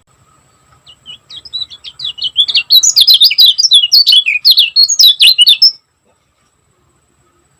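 Kecial kuning (Lombok white-eye) singing a fast, tightly packed run of high chirping notes. It starts softly about a second in, turns loud and rapid, then stops abruptly near the end.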